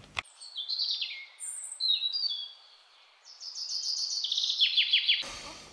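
Birdsong: a series of high whistled notes, each dropping in pitch, ending about four seconds in with a quick run of short downward-sweeping notes.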